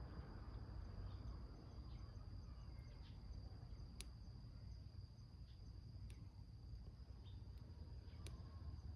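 Small wood fire burning in a tin can, crackling with a few sharp, sparse pops, over a steady high insect trill and a low rumble.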